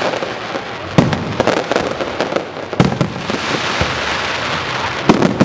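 Fireworks display going off: three sharp bangs of bursting shells, about two seconds apart, with smaller pops and a steady crackling hiss between them.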